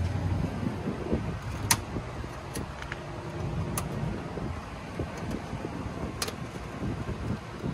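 A few sharp clicks and taps from hand work on the motor wiring, three or four in all, over a steady low rumble of background noise.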